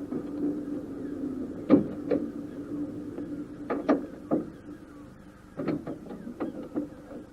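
Seaton Tramway electric tram running, with a steady motor hum and sharp knocks, often in pairs, from the wheels on the track. The hum fades away over the last two seconds.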